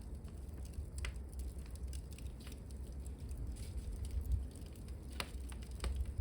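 Wood fire burning in a fireplace hearth: irregular sharp crackles and pops from the burning logs over a steady low rumble of the flames.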